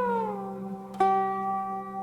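Pipa music: a ringing plucked note bends down in pitch, then a new note is plucked about a second in and left to ring and fade, over a steady low drone.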